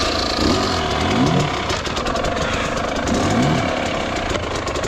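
Dirt bike engine running just after being started, with the throttle blipped so the revs rise twice, about a second in and again about three seconds in.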